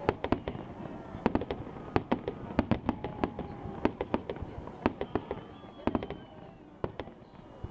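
Fireworks display: aerial shells bursting in a quick, irregular series of sharp bangs and crackles, thinning out after about six seconds in.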